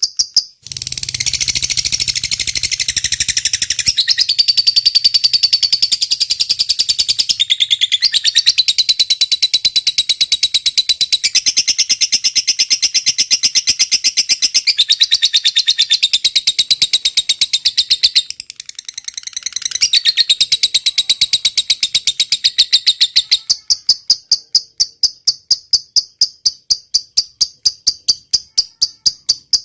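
Rapid, high-pitched chattering bird song in layered phrases that change every few seconds. About three-quarters of the way through it gives way to a steady, evenly pulsed high chirping like a cricket's.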